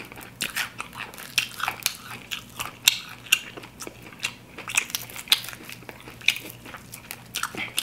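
Fried chicken wings being bitten and chewed: a steady run of sharp, crisp crunches from the fried coating.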